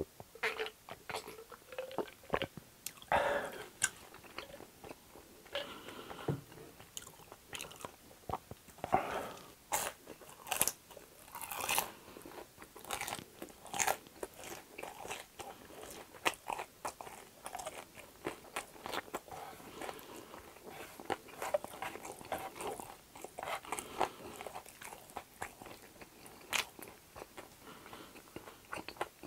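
Close-miked eating: crisp crunching bites and chewing of fried food, with gulps from a drink in the first couple of seconds.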